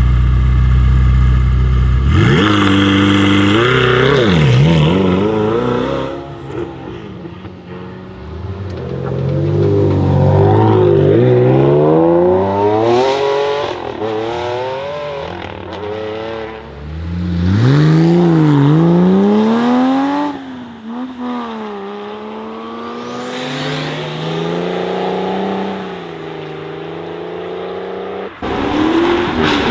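Supercar engines heard in turn. First a Ferrari 488 Spider's twin-turbo V8 held at steady revs. Then, after a cut, a Ferrari Enzo's V12 revving and accelerating away hard, its pitch climbing through each gear and dropping at every upshift. Another car comes in near the end.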